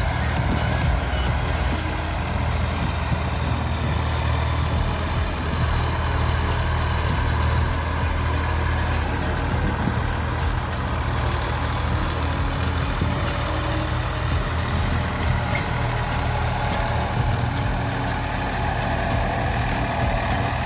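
Massey Ferguson 245 DI tractor's diesel engine running steadily at a constant speed.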